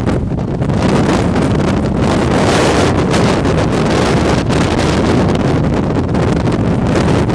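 Hurricane-force wind gusting well past 100 mph and buffeting the microphone: a loud, continuous rush of wind noise, heavy in the low end, swelling and dipping with the gusts.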